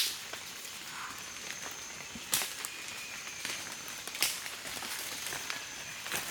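Three sharp snaps or knocks about two seconds apart, over quiet outdoor background with a faint high steady tone.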